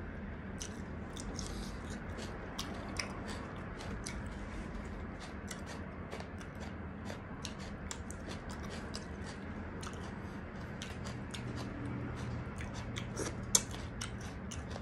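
A person chewing and biting food: a steady run of small wet clicks and crunches, with one sharper, louder click about thirteen and a half seconds in.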